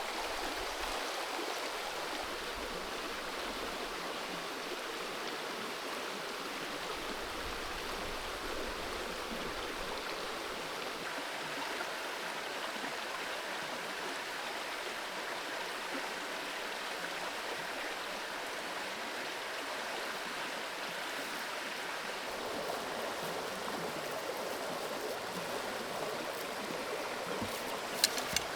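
Small forest creek flowing steadily, water babbling over stones. A few sharp clicks or knocks near the end.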